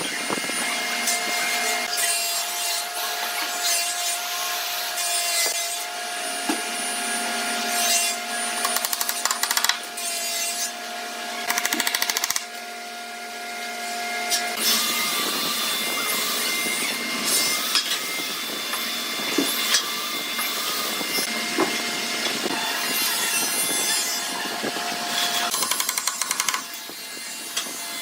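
Woodworking power tools running and cutting or sanding wood, a steady motor tone under the noise of the work, changing abruptly between shots.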